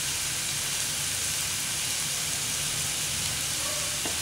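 Chopped tomatoes and onion frying in oil in a nonstick pan: a steady sizzle, with one light tap near the end.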